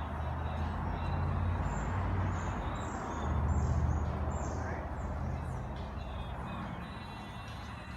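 2017 Indian Scout's liquid-cooled V-twin engine running at idle, swelling slightly twice, with faint bird chirps above it.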